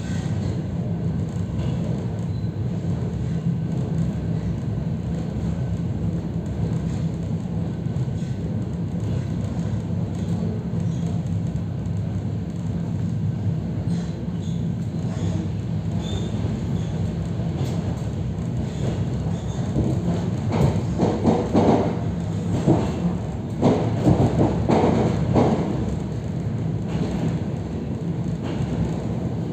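ЭП3Д electric multiple-unit train running, heard from inside the carriage: a steady low rumble and hum. From about two-thirds of the way in, the wheels clack loudly over the track for several seconds.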